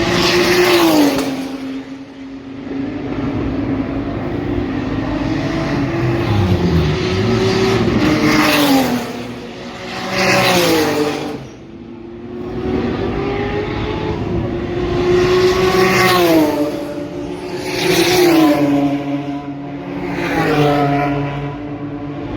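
Race cars passing at speed one after another, about six times, each engine note dropping in pitch as the car goes by.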